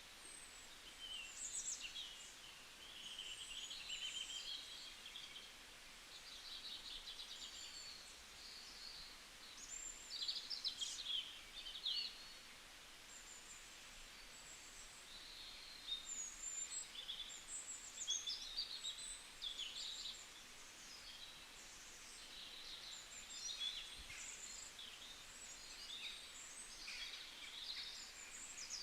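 Several small songbirds singing and chirping, with many short, overlapping high trills and calls that come and go throughout, over a faint hiss.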